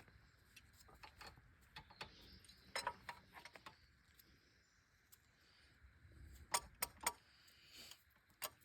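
Scattered light metallic clinks and taps of hand tools being handled: a cluster about three seconds in, a few sharper ones around seven seconds, and one near the end.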